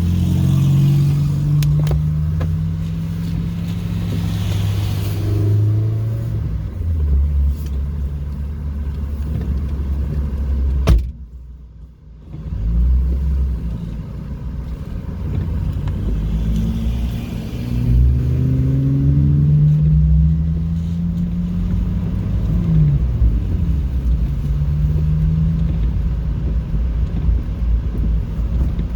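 Car engine heard from inside the cabin, accelerating hard so that its pitch climbs and then drops back as gears change, several times over. About eleven seconds in there is a sharp click and the sound falls away for about a second before the engine builds up again.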